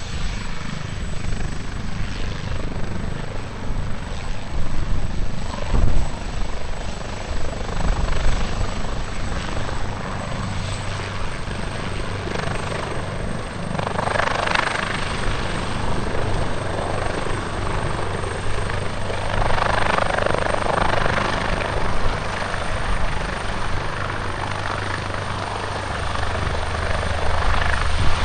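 AgustaWestland AW139 twin-turbine helicopter running, its rotor beating as a steady low throb that swells at times and grows heavier near the end.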